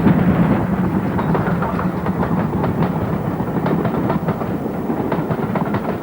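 Great Western Castle-class steam locomotive running with its train: a steady rumble with many quick clicks and clanks of wheels on the rails.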